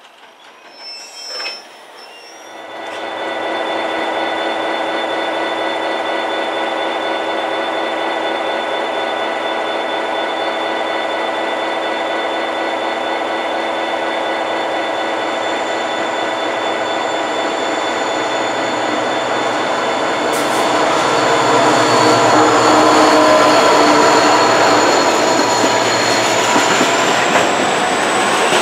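Irish Rail diesel-hauled freight train running, with a steady whine of several held tones over the rumble. It starts about two and a half seconds in and grows louder for a few seconds near the end.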